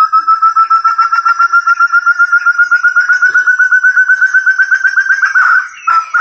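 Forest partridge (burung terung) calling: a long run of rapid whistled notes, about eight a second, each slightly higher than the last. The run breaks off shortly before the end.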